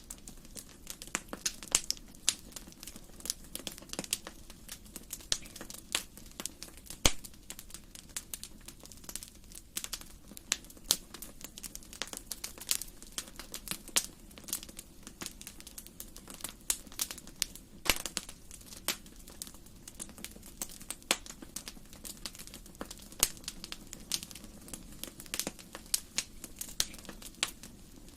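Wood fire burning in a fireplace, crackling with irregular sharp pops several times a second over a low, steady rush of flame.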